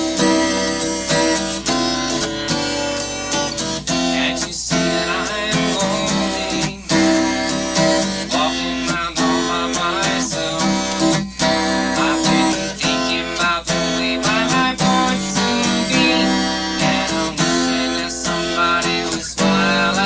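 Acoustic guitar strummed in a steady song accompaniment, chords ringing with brief breaks at the chord changes.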